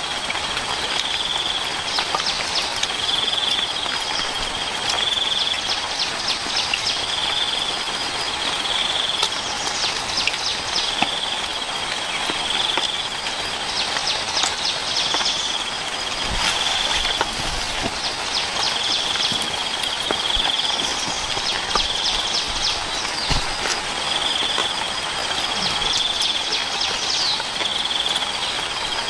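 Insects calling outdoors: a short high call repeating about once a second, with bursts of fast trilling, over a steady hiss like rain.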